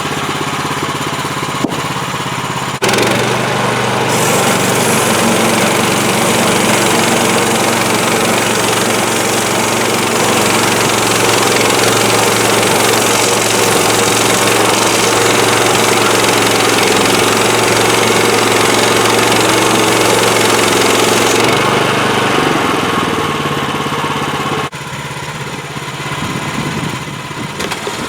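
Portable band sawmill's gas engine running steadily. About three seconds in it speeds up and a dense high hiss joins it, as of the band blade cutting through a log. The hiss fades after about twenty seconds, and the engine drops back down near the end.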